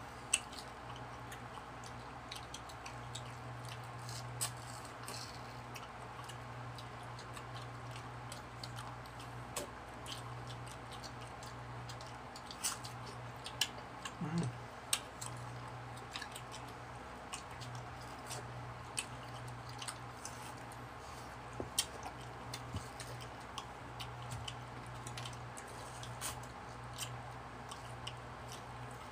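People biting and chewing ripe mango flesh: wet mouth clicks and squishy smacks scattered throughout, over a steady low hum.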